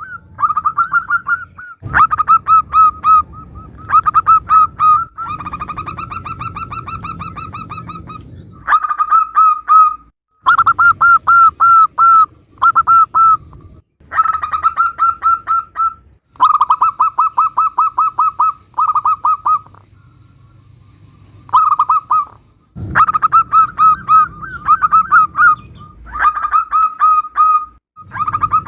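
Zebra doves (perkutut) singing: phrase after phrase of quick, rhythmic staccato coos, each run lasting a second or two with short pauses between, several phrases breaking off abruptly.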